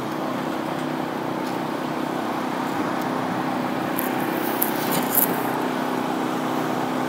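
Steady road-vehicle engine and traffic noise with a constant low hum, and a few faint clicks about four to five seconds in.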